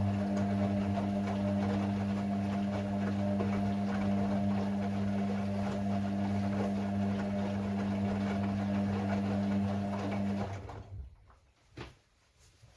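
Hoover Six Sportswear 1300 washing machine running with a steady electric hum, which cuts off about ten seconds in and is followed by a few faint clicks.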